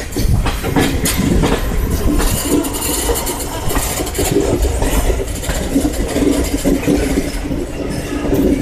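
Express passenger train running along the track: a steady rumble and rattle with the clatter of wheels over rail joints.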